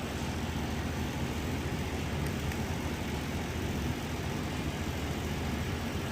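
Steady low mechanical rumble with no distinct knocks or tool strikes.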